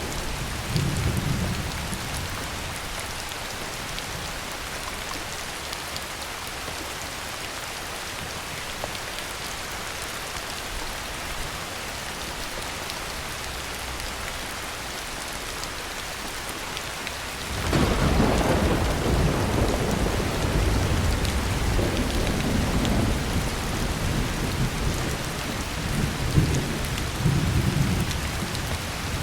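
Heavy rain falling steadily, with thunder: a short rumble about a second in, then a louder rolling peal breaking in sharply past the middle and rumbling on in swells to the end.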